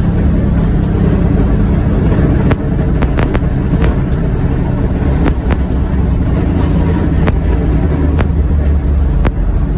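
John Deere Gator UVX 835M utility vehicle driving at a steady pace, its engine and drivetrain running with a continuous low rumble. A handful of sharp clicks or rattles are scattered through it.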